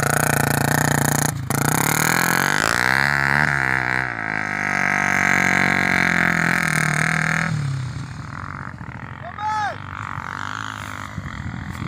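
Trail motorcycle engine droning under load at fairly steady revs, dropping away about three-quarters of the way through. A short rising-then-falling tone sounds near the end.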